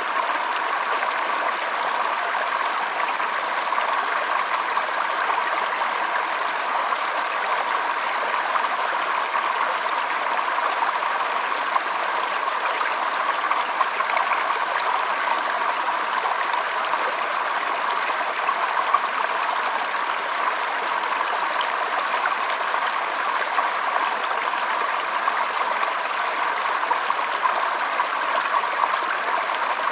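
Water from a small stream flowing and babbling over stones, a steady rush with fine splashy detail.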